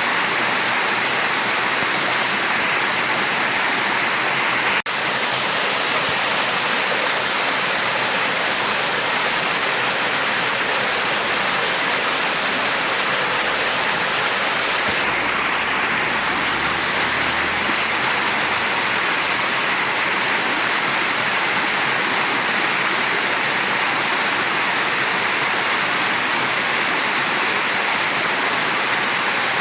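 Mountain stream rushing and splashing steadily, with one momentary dropout about five seconds in.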